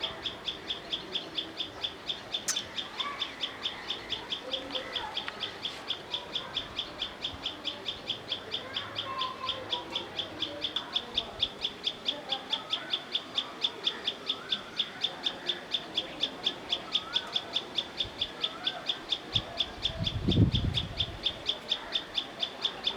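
Birdsong: one high chirp repeated very steadily, about four times a second, with other birds calling faintly behind it. A brief low sound comes about twenty seconds in.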